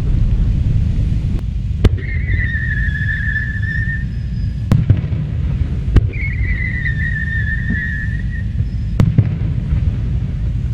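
Aerial fireworks going off: about four sharp bangs over a steady low rumble of booms. Two long, wavering whistles from whistling shells each sink slightly in pitch over about two seconds.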